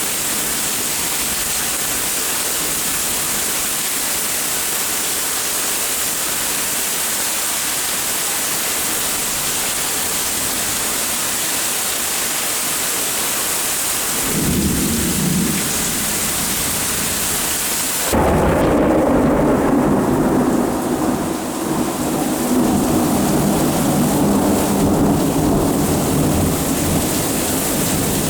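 Steady hiss of heavy rain, with thunder rumbling in about halfway. Some two-thirds of the way in the sound shifts abruptly to a louder, deeper rolling rumble of thunder, and the rain hiss drops back.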